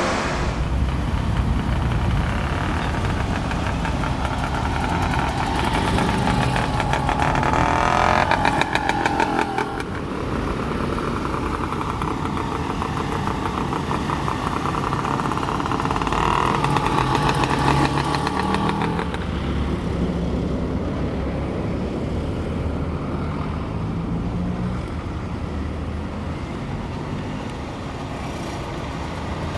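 Daihatsu Midget MP three-wheeled truck's small engine running as it drives, revving harder around eight seconds in and then easing off suddenly.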